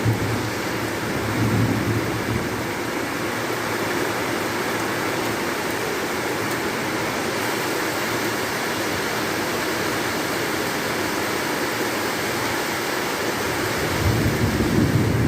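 Heavy rain pouring down steadily, with low rumbles swelling about a second and a half in and again near the end.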